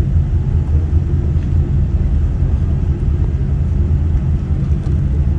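Steady low rumble inside the cabin of a Boeing 787-9 airliner rolling on the ground after landing, the engines and wheels heard through the fuselage.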